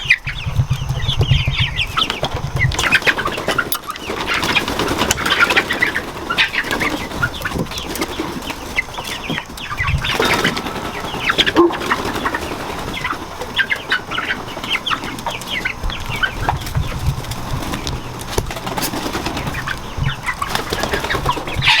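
A flock of chickens clucking and squawking on being let out of their coop, with wing flapping and scuffling as they hop down without waiting for the ramp.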